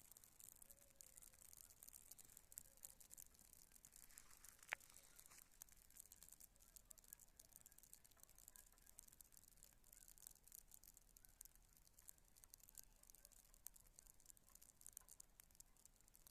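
Campfire burning, crackling faintly with many small ticks and one sharper pop about five seconds in.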